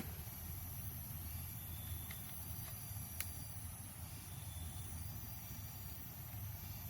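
Quiet outdoor background: a low rumble under a steady high hiss, with faint short chirps and a single sharp click about three seconds in.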